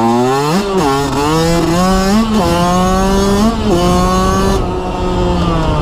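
Dirt bike engine accelerating hard through the gears. Its pitch climbs and drops back sharply about three times as it shifts up, then sinks gradually near the end as the throttle eases off.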